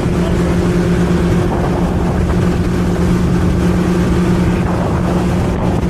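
Motorboat engine running at a steady, unchanging pitch, with a rush of wind and water noise over it.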